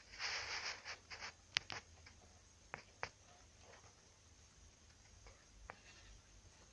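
Brief rustling and scraping, then a few sharp clicks and taps spaced out over the next few seconds.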